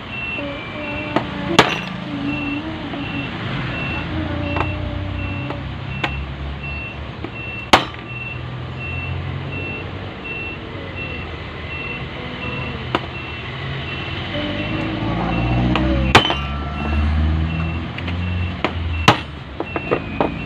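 Hammer strikes on metal, a few seconds apart, driving the bushing lock of an electric fan motor's new bushing into its housing. Under them run a steady low engine rumble and an evenly repeating high beep like a reversing alarm.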